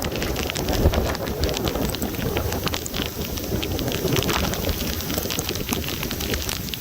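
Heavy thunderstorm rain, with many sharp, close drop hits on surfaces and on the camera. Gusty wind rumbles on the microphone underneath.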